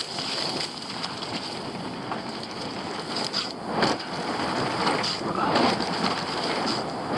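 Wind rushing over the camera microphone and tyre and drivetrain noise from a Polygon Siskiu T7 mountain bike riding a wet dirt trail, with louder surges about four and five and a half seconds in.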